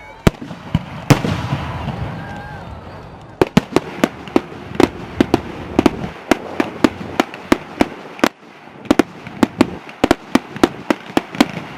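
Fireworks going off: two loud bangs in the first second or so, then from about three and a half seconds in a rapid string of sharp cracks, about four a second, like a firework barrage.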